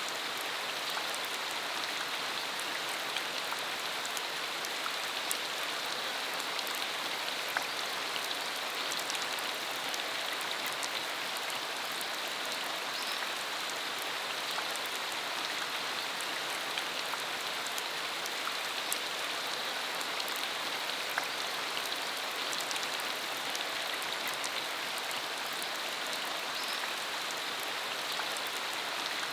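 Steady rain falling on a dirt country road, an even patter with scattered individual drops ticking.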